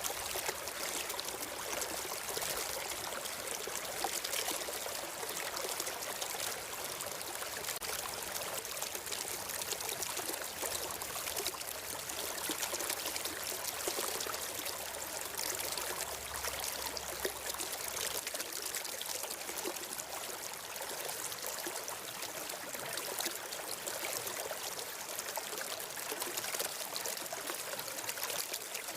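Stream water flowing steadily, an even rushing and trickling with no pauses.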